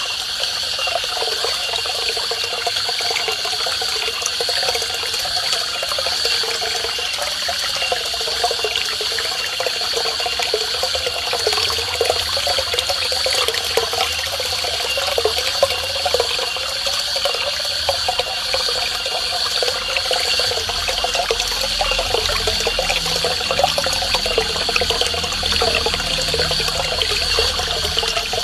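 Small garden waterfall splashing steadily into a koi pond, a constant rush of falling water.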